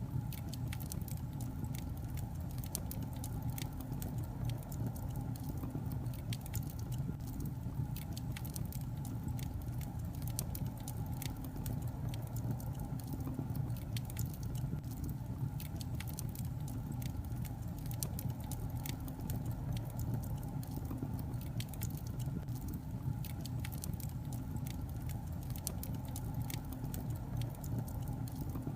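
Log fire crackling: irregular sharp pops and snaps over a steady low rumble of burning wood.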